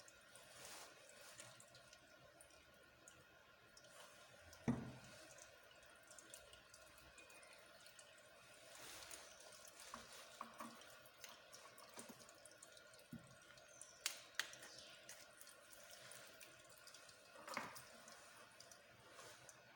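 Near silence with a few faint, sharp knocks and clicks, spaced several seconds apart, the loudest about five seconds in.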